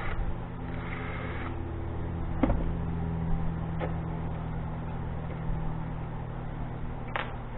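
Steady low mechanical hum of a running machine, with three sharp knocks spread through it, the last one near the end.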